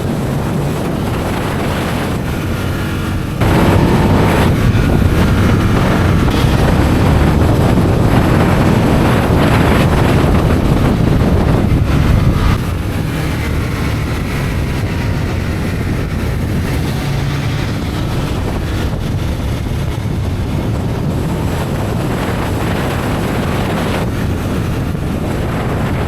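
Aprilia RSV Tuono motorcycle engine running at speed, with wind buffeting the microphone. About three and a half seconds in it gets suddenly louder and rises in pitch under hard acceleration, holds there until about twelve seconds in, then drops back as the throttle eases.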